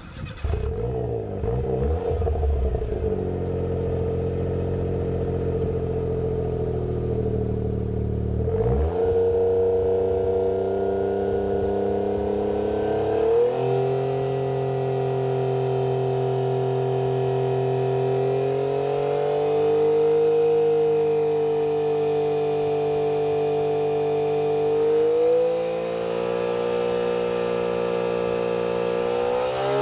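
Suzuki Cappuccino's turbocharged F6A three-cylinder engine, breathing through a pupa Euro muffler, fires up and settles into a steady idle. The idle speed shifts up and down slightly a few times.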